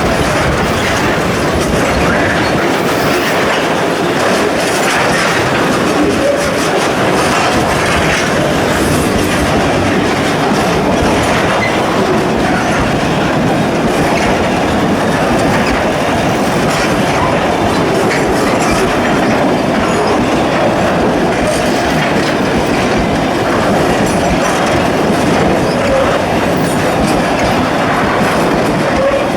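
Freight train wagons rolling by, steel wheels clattering steadily over the rails. It is loud and even throughout.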